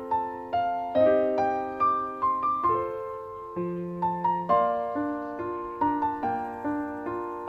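Background piano music: a slow, gentle melody over chords, each note struck and then fading.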